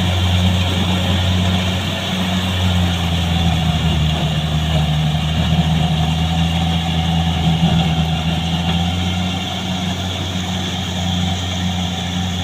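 Farm tractor engine running steadily with a deep, even hum as the tractor drives.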